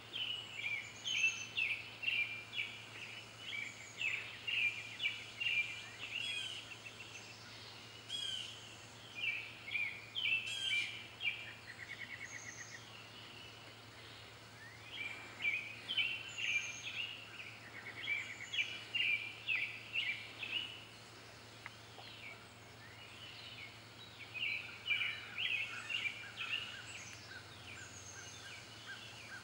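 Songbirds singing: bursts of quick chirping phrases and short slurred notes, pausing for a second or two between bouts, over a faint steady low hum.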